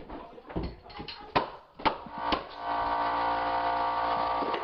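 A few sharp wooden knocks as hardwood floor boards are slid and set against each other. About halfway through, background music with long held tones comes in.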